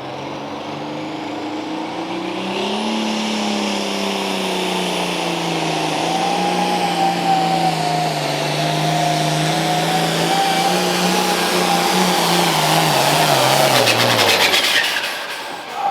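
Super stock pulling tractor's diesel engine at full throttle under load down the track, with a high whine over it. About twelve seconds in the engine note sags, and it dies off soon after as the tractor bogs down and can no longer turn the gear.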